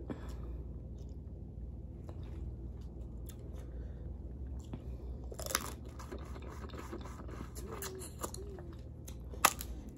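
Close-up chewing and biting of seafood-boil food, with scattered soft crunches and clicks. There is a louder crunch about halfway through and one sharp crack near the end, over a steady low hum.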